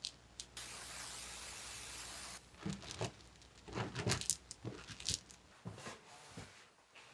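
A steady hiss lasting about two seconds that starts and stops abruptly, followed by a run of irregular knocks and clicks, like tools or parts being handled in a workshop.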